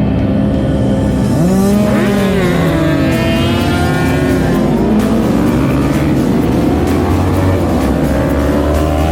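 Sportbike engines revving hard as several bikes race past, their pitch rising and falling from about a second and a half in, over background music.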